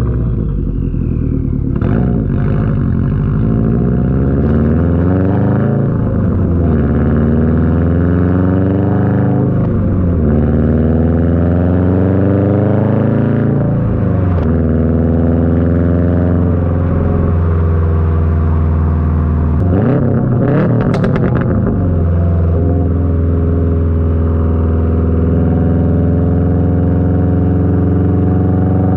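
2021 Subaru WRX STI's turbocharged 2.5-litre flat-four through a titanium cat-back exhaust, accelerating with the engine note climbing and dropping back at each of several upshifts. About twenty seconds in there is a short burst of sharp exhaust pops, then the engine runs at a steady note.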